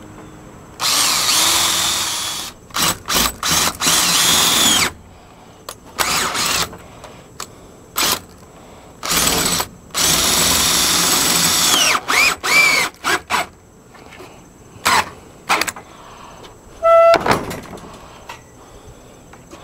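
Power drill run in a series of trigger pulls, some short and some held for a few seconds, its motor whine rising as it spins up and falling as it winds down, as it bores and drives screws into fence wood.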